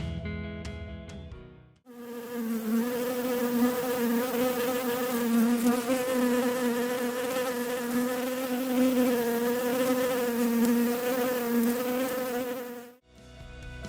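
A bee buzzing steadily, its pitch wavering slightly, for about eleven seconds. It is preceded by guitar music that fades out, and it cuts off abruptly as the music returns near the end.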